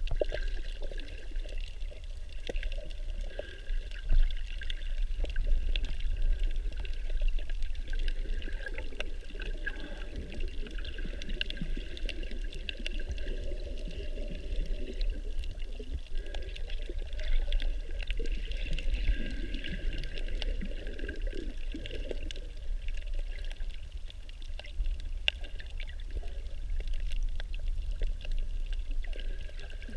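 Water sloshing and pouring around a snorkeler's camera, muffled, with a steady low rumble and scattered faint clicks.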